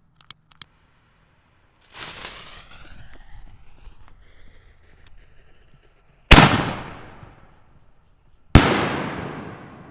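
A 5-inch canister firework shell going off: a couple of seconds of hissing, then two loud booms about two seconds apart, each with a long echoing tail rolling off across the valley.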